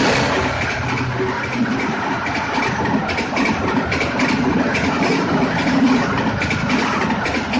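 Passenger train running past close by: a steady rumble and rush of the cars, with quick irregular clicks of the wheels over the rail joints.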